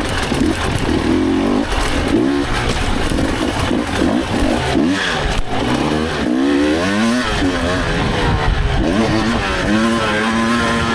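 Dirt bike engine revved up and down over and over, its pitch rising and falling with each blip of the throttle, the swoops coming quicker in the second half.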